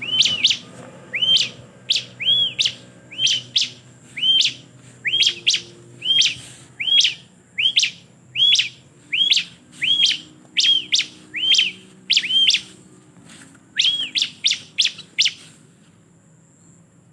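Bar-winged prinia (ciblek) calling: a long run of sharp chirps, each a quick rising note bending into a short hooked arch, repeated about twice a second, stopping shortly before the end.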